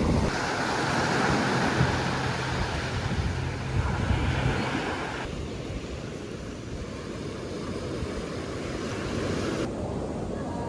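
Ocean surf washing on a beach, with wind buffeting the microphone. The background noise changes abruptly twice.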